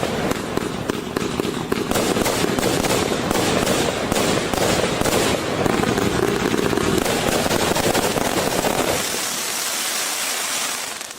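Brother Pyrotechnics 'Infamous' 210-shot compound firework cake in its finale: a dense, continuous barrage of shots and bursts. About nine seconds in, the bangs stop and a crackling hiss of crackle stars takes over, fading away at the end.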